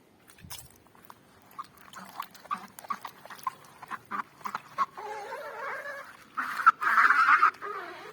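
A swimming pool's body creaking and squeaking: a run of short squeaks, then two longer drawn-out squeals near the end, the last the loudest. Creaking like this is taken as a sign that the pool is ready to be filled with water.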